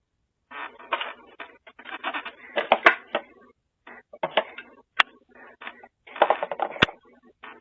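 A pet chewing food, with irregular crunching bursts and a few sharp clicks.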